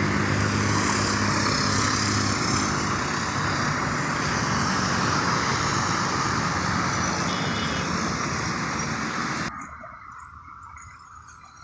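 Road traffic noise with a vehicle engine running close by at first, then a steady rush of passing traffic that cuts off abruptly near the end.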